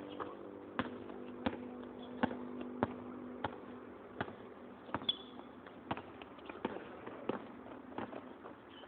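A basketball being dribbled on a hard court, bouncing at an even pace of about three bounces every two seconds.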